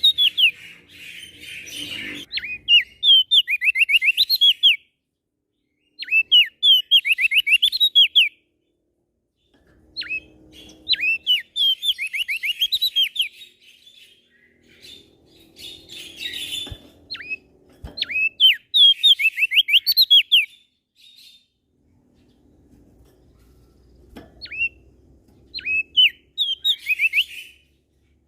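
Small songbird singing in repeated bursts, each a quick run of sharp, falling whistled notes, with short pauses between bursts. Two faint clicks sound about two-thirds of the way through.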